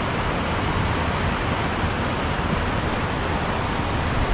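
Waterfall rushing: a steady, unbroken noise of falling water tumbling over boulders into pools.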